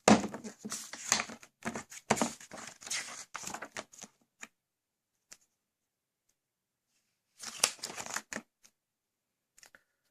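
Paper rustling and crinkling as a picture book is handled and its pages turned: a spell of about four seconds, then a shorter one about seven and a half seconds in.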